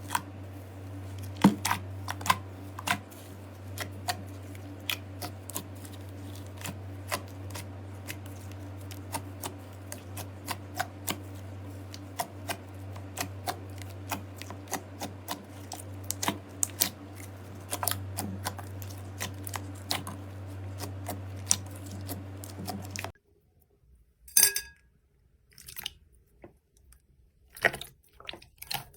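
Slime being handled and pressed, giving many small sharp pops and clicks at an uneven pace. A steady low hum sits underneath and cuts off suddenly about three quarters of the way through, leaving sparser, quieter clicks.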